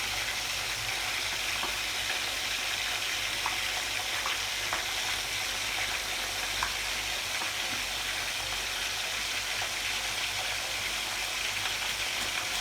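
Pork marinated in fish sauce frying in hot oil in a wok: a steady sizzle with a few faint crackles scattered through it.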